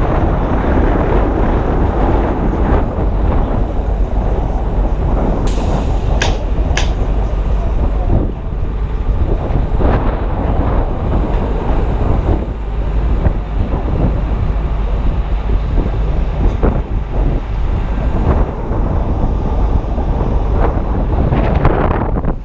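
Strong wind buffeting the camera's microphone, a steady low rumble, with two or three sharp clicks about six seconds in.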